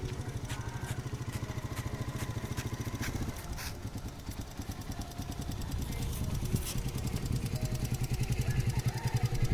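Motor vehicle engine running with a rapid, even pulse, easing off about three seconds in and growing louder toward the end.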